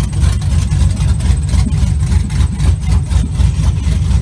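Chevrolet Silverado pickup's V8 engine, freshly fitted with an aftermarket cam, idling with a deep, uneven pulsing exhaust note.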